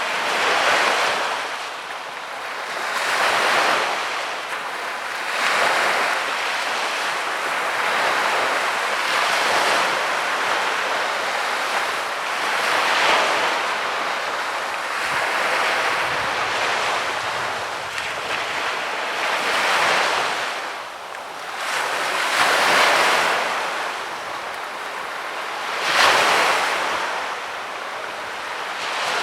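Small waves breaking and washing up on a sandy beach, the surf swelling and falling away every few seconds, with one louder wave near the end.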